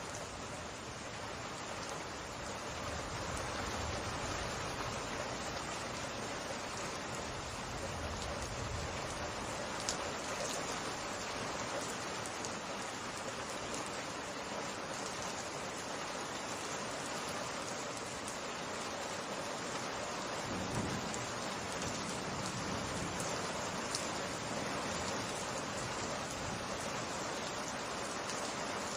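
Steady rain falling in a summer rain shower: a continuous even hiss of drops, with a few sharper drop ticks now and then.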